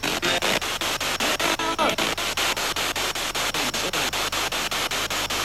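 SB7 spirit box sweeping radio stations: steady static chopped into quick, even pulses several times a second, with brief fragments of broadcast voices caught between the hiss.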